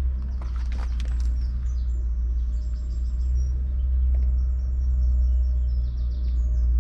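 A Case IH Puma 240 CVX tractor's 6.7-litre six-cylinder diesel running as a steady low rumble. Birds chirp over it from about a second in, and there are a few clicks at the start.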